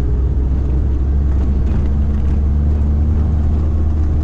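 Motor vehicle running at a steady pace: an even, loud low engine and road drone with a steady hum over it.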